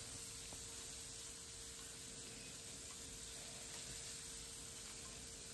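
Seasoned chicken thighs searing in olive oil in a pan, a faint steady sizzle.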